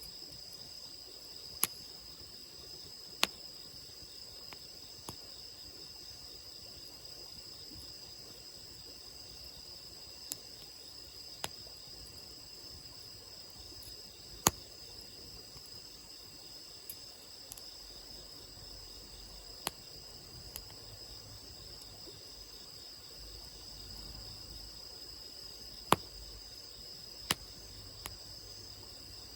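Wood campfire crackling, with sharp single pops every few seconds at irregular intervals, over a steady high-pitched chorus of insects.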